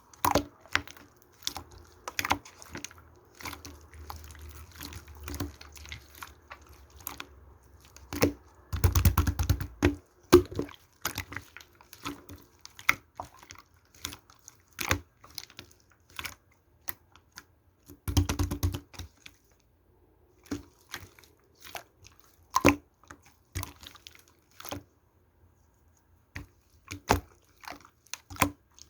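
Slime being squished and pressed by hand, making a run of sticky clicks and pops, with two dense bursts of rapid crackling about nine and eighteen seconds in.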